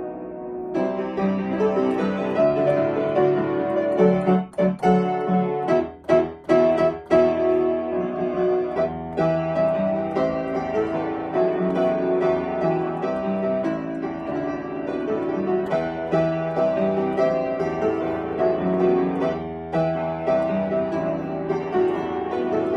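Piano playing a pop song arrangement, with a few short, clipped stops in the phrase a few seconds in.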